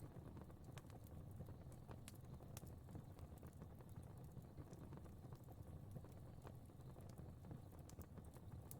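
Fire burning faintly in a fireplace: a low, steady rumble of flames with scattered soft crackles and pops at irregular intervals.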